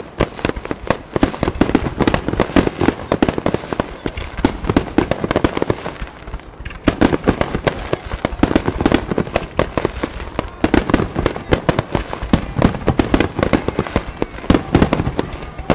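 Japanese starmine finale: a rapid-fire barrage of fireworks shells bursting in a dense string of bangs and crackles, easing briefly about six and a half and ten and a half seconds in before picking up again.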